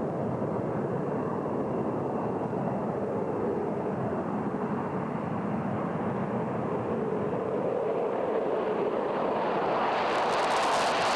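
Jet fighter engine running, heard as a steady rushing noise with a faint high whine, growing a little louder and brighter near the end.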